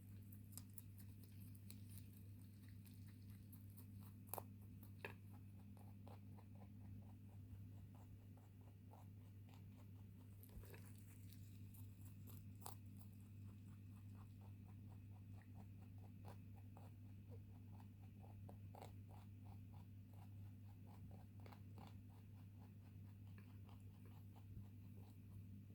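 A rabbit faintly chewing and crunching food in quick, irregular little crunches, over the steady low hum of an electric fan.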